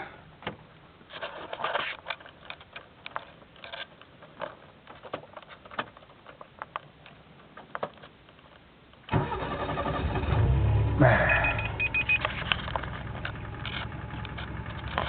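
Scattered light clicks, then about nine seconds in the 1993 Kia Pride's 1.3-litre four-cylinder engine is started: it cranks, catches with a brief rise in revs about a second later, and settles to a steady idle.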